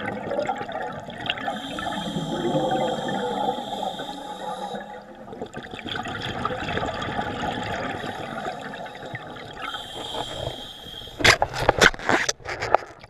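Rushing, gurgling water with a hiss that comes and goes, typical of a scuba diver's exhaled bubbles heard underwater. Several sharp knocks sound close together near the end.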